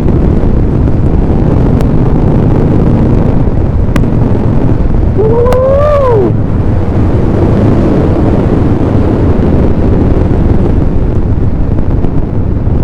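Motorcycle running at speed with heavy wind buffeting on the microphone. About five seconds in, a single short call rises and then falls in pitch over the noise.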